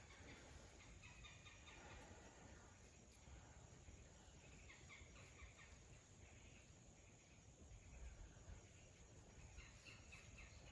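Near silence, with a few faint high-pitched calls or chirps in the background.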